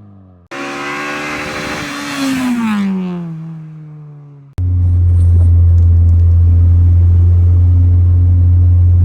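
Honda K20 four-cylinder engine in a Civic EK revving up and then dropping back in pitch. After an abrupt cut a little past halfway, it settles into a loud, steady, low drone.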